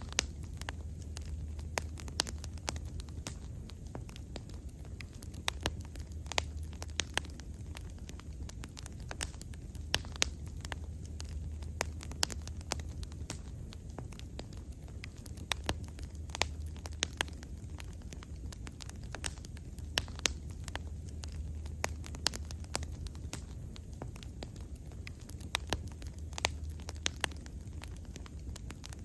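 Wood bonfire burning with frequent sharp crackles and pops over a steady low rumble of the flames.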